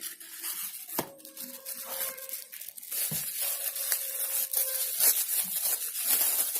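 Packaging being torn open and crinkled by hand, a crackly rustling with a couple of sharp clicks, louder in the second half.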